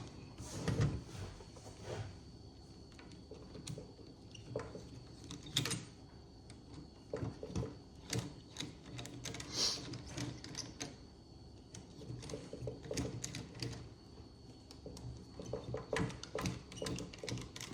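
Scattered clicks and light metal taps of hand tools working on a Holley carburettor, undoing the front float bowl's screws, with a few louder knocks.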